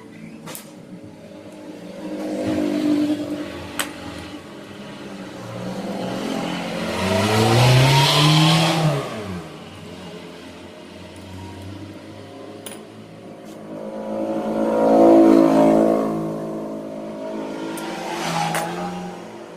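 Vehicle engines rising and falling in pitch several times, loudest about eight and fifteen seconds in, with a few sharp clicks in between.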